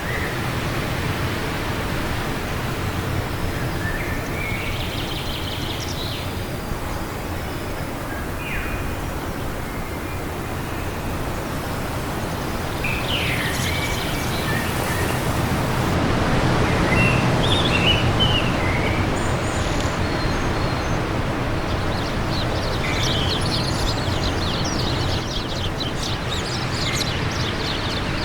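Steady wind blowing, swelling a little past the middle, with scattered short bird chirps and calls over it and a quick run of high chirps near the end.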